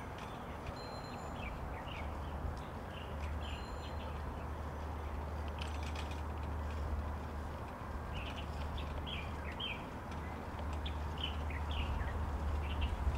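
Small birds chirping in short, quick calls that come in irregular clusters, over a steady low rumble.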